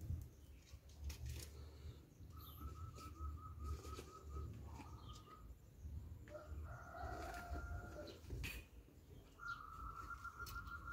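Faint bird calls: a fast pulsing trill held for about two seconds, a crowing call around the middle, and the trill again near the end, with scattered light clicks.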